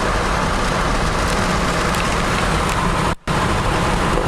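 Steady road noise of a Jeep driving at highway speed, heard from inside the cab: engine rumble under tyre and wind noise. It drops out for a split second about three seconds in.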